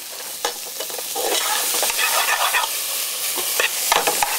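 Garlic and peppers sizzling in hot oil in a stainless steel pot, stirred with metal tongs that click against the pot several times. The sizzle grows louder about a second in.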